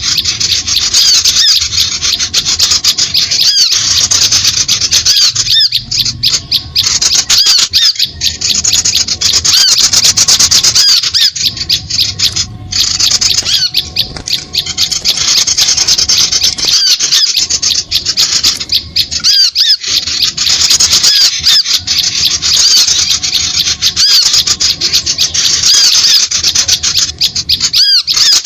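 Dense chorus of many small birds calling at once, high overlapping chirps and chatter without a break: a bird-lure recording played to draw small birds onto birdlime.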